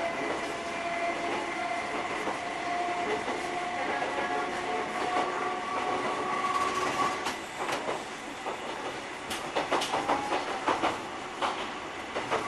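Electric railcar running along the line, heard from inside the passenger cabin. A steady whine lasts for about the first seven seconds, then a quick run of sharp clacks comes from the wheels passing over rail joints, about ten seconds in.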